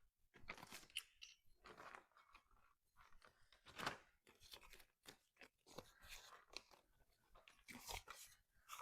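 Faint, scattered handling sounds: small clicks and rustles of items being picked up and moved, the slightly louder one about four seconds in.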